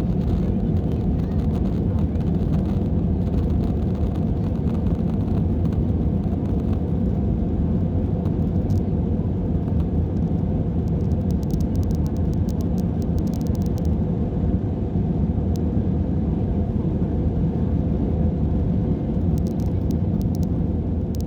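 Steady low rumble inside an Airbus A320 airliner's cabin: engine and airflow noise holding even.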